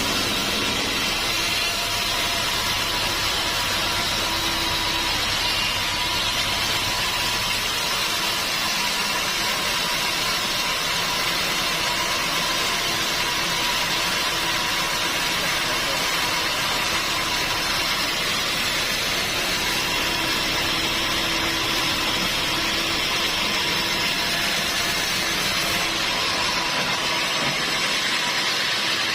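Engine-driven sawmill machinery running steadily, a constant mechanical drone with a faint steady whine.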